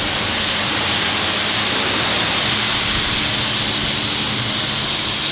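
High-pressure wand at a self-service car wash spraying water, a steady hiss that holds even throughout, with a low steady hum underneath.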